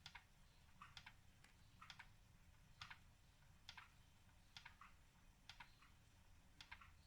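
Wilesco D20 toy stationary steam engine running slowly and quietly, with a faint double click about once a second.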